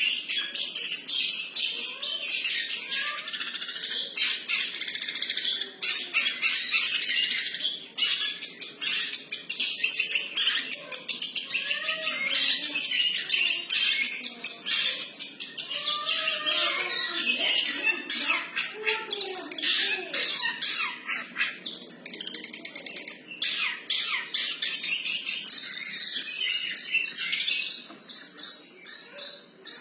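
Long-tailed shrike (cendet) singing continuously in a varied, rambling song of fast chattering and twittering notes, with lower sweeping whistles in the middle.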